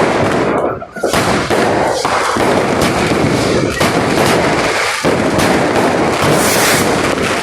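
Fireworks and firecrackers going off in a dense, near-continuous barrage of overlapping bangs and crackling.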